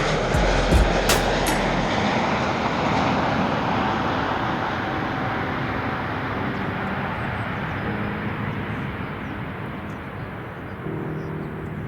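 Jet airliner engines passing and fading away: a broad rushing noise that slowly dies down. Wind buffets the microphone with low thumps in the first two seconds.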